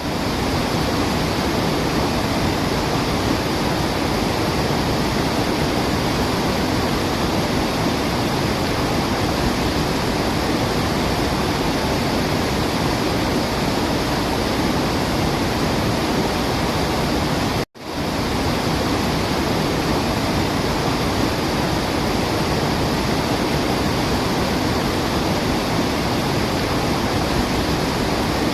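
Steady rush of a waterfall, an even, unbroken roar of falling water. It cuts out for a split second about two-thirds of the way through.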